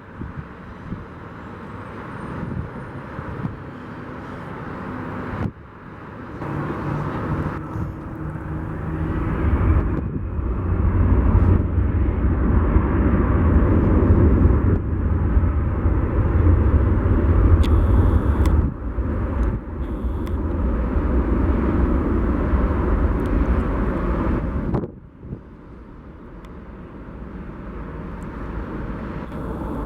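Departing airplane's engines: a low, heavy rumble that swells over several seconds, stays loud for more than ten seconds, then drops off abruptly near the end.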